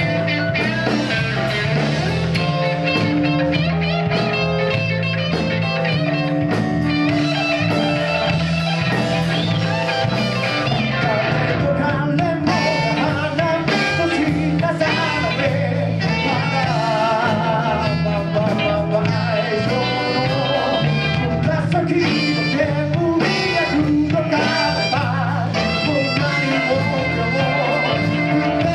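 Live rock band playing a song with electric guitar and a steady bass line, with a melodic line, sung or played, bending over the top.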